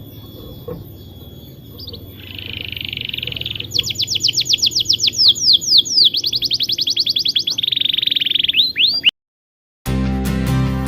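A caged songbird singing: a buzzy trill, then a fast run of sharp falling whistled notes at about ten a second, then another buzzy trill ending in a few quick rising notes.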